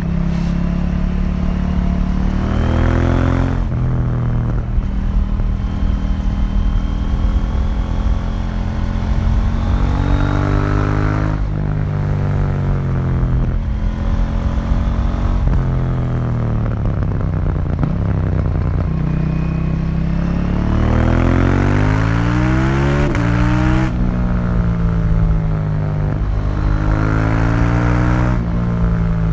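2018 KTM 790 Duke's parallel-twin engine through its stock exhaust, heard onboard under way. The revs climb and fall again and again as the bike accelerates and slows, with sudden drops in pitch after the long climbs.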